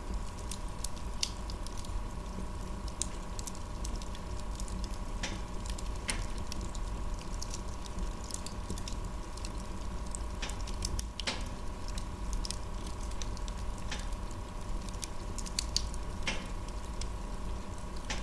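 Wood fire crackling, with irregular sharp pops and snaps every second or so over a low steady rumble. A faint steady tone runs underneath.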